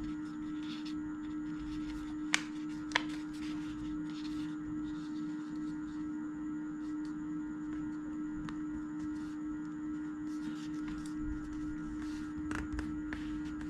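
Steady electrical hum, with faint paper rustling from folding and two sharp clicks about two and a half and three seconds in.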